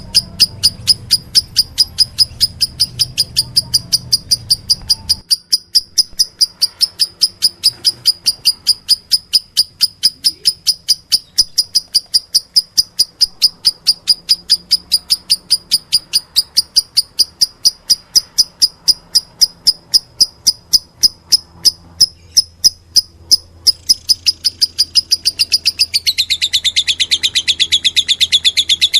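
Lovebird calling in rapid, evenly repeated high chirps, about five a second, the begging calls made while being fed. Near the end the chirps drop lower in pitch and come faster.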